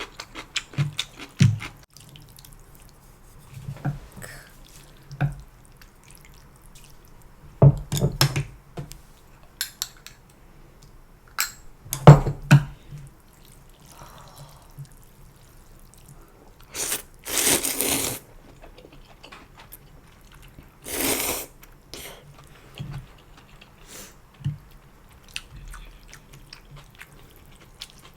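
Wet eating sounds from a bowl of janchi guksu, Korean noodles in broth: sharp clicks of chopsticks and spoon against the bowl, small slurps and chewing, and two longer slurps of noodles or broth in the second half.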